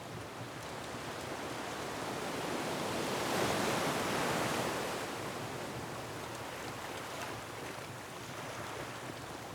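Ocean surf washing on a rocky shore: one wave swells to a peak about three to four seconds in and then recedes into a steady wash, with a few faint fireplace crackles.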